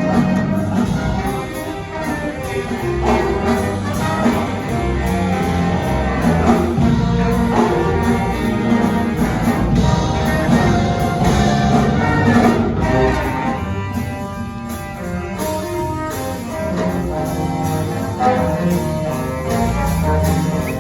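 Live big band playing a swing jazz arrangement, with the brass section of trumpets and trombones prominent over a rhythm section.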